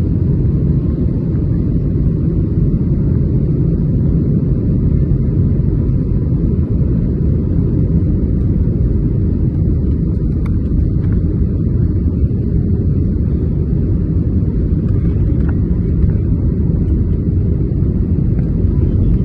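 Loud, steady low rumbling noise that fluctuates constantly without any pitch or rhythm.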